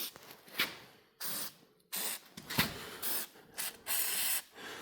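Aerosol can of white lithium grease spraying through its straw nozzle in several short bursts of hiss onto garage door rollers and axles, with a sharp knock about two and a half seconds in.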